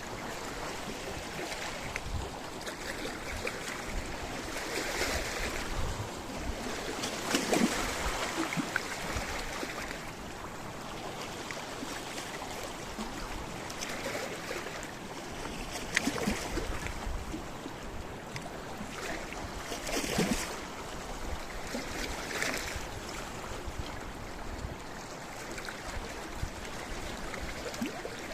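Sea waves washing and splashing against a rocky shore, with louder surges every few seconds over a steady wash, and low rumble that may be wind on the microphone.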